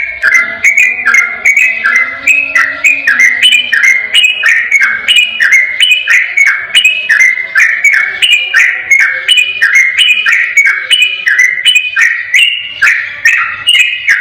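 Yellow-vented bulbul (trucukan) singing a fast, unbroken run of short bubbling whistled notes, about three a second, in the long rapid 'ropel' style used as a master song to prompt other birds to sing.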